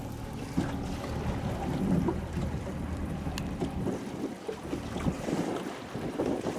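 Wind buffeting the microphone over water moving around a boat, with a low steady hum in the first part.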